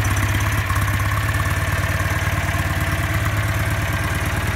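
Freshly rebuilt Citroën AM2 602 cc air-cooled flat-twin engine idling steadily with a little choke on, soon after starting, with an even run of firing pulses.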